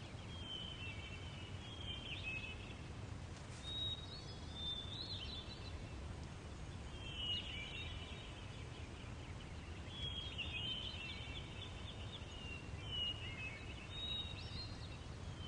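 Birds singing in short chirping phrases that recur every few seconds, over a faint low outdoor rumble.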